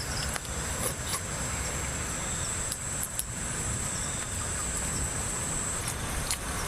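A steady high-pitched insect drone that stops near the end, over a low, even rushing background noise with a few light clicks.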